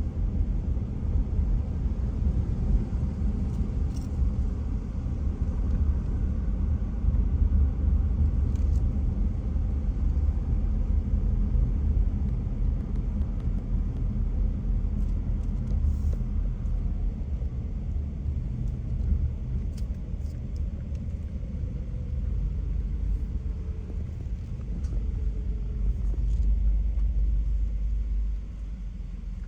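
Car being driven, a steady low rumble of engine and road noise that drops somewhat just before the end.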